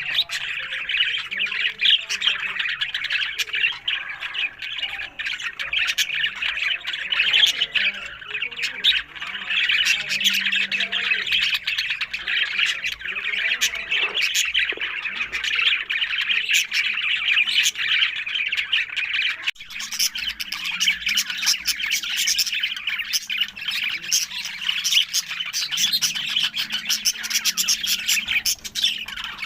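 A group of budgerigars chattering and squawking continuously, a dense mix of warbles, chirps and sharp calls.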